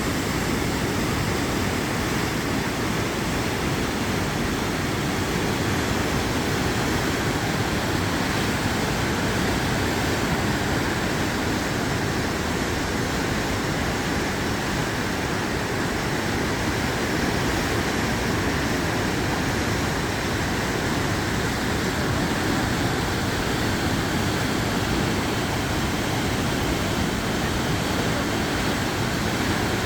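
Danube floodwater rushing steadily through a hydropower plant's spillway, a continuous even noise that does not change.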